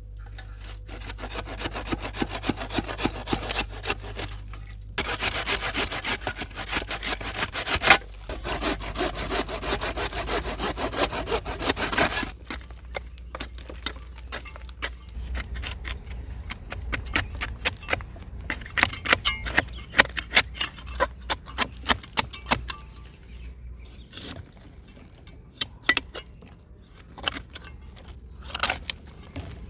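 Wood being sawn by hand in two long runs of rapid strokes, the second ending about twelve seconds in, then scattered knocks, scrapes and clicks of wood being handled.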